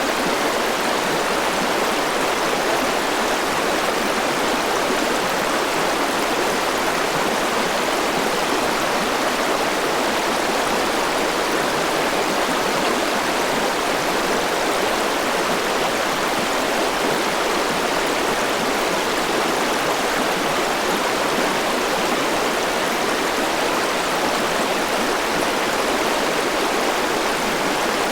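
Forest river flowing over rocks, a steady, even rush of water.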